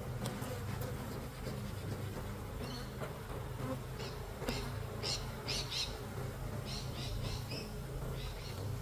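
Honeybees buzzing steadily around an open hive during a frame inspection. Short high chirps sound in the background from about a third of the way in.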